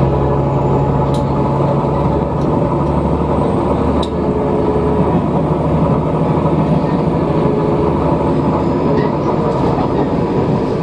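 Electric train of the Tobu Kinugawa Line running at speed, heard from inside the car: a steady rumble of wheels on rail with a motor hum that shifts in pitch about halfway through, and a few sharp clicks.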